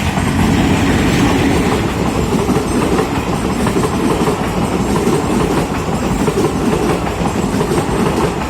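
Train running on the rails close by, a loud steady rumble with a rapid clatter of wheels over the track.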